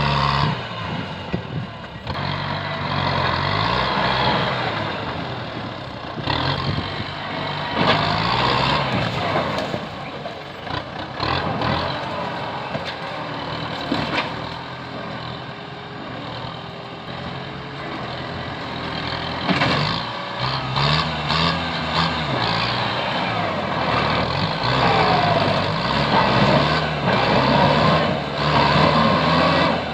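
Kubota M8540 tractor's diesel engine working hard, its pitch rising and falling repeatedly, with scattered sharp cracks and snaps over the engine noise.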